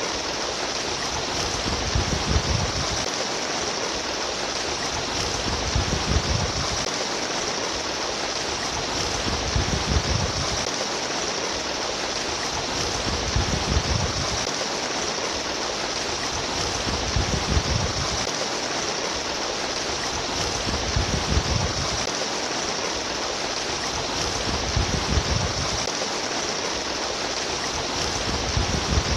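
Babbling, trickling water running steadily, with a low rumbling swell that comes back about every four seconds.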